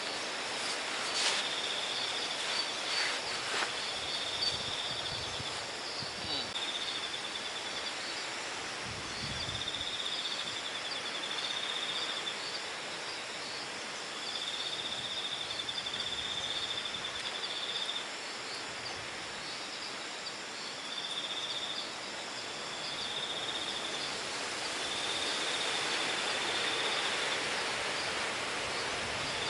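Strong night wind blowing steadily, a little louder late on, while insects trill in repeated high pulsing bursts of one to two seconds each. A few clicks come in the first few seconds.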